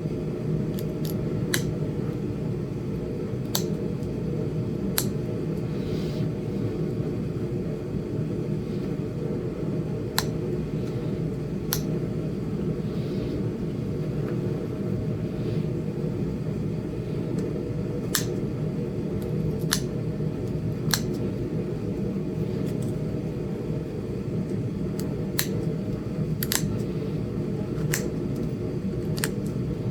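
Sharp, irregular clicks of small flakes snapping off a Flint Ridge chert point as notches are worked into its base, about fifteen over the stretch, under a steady low rumble.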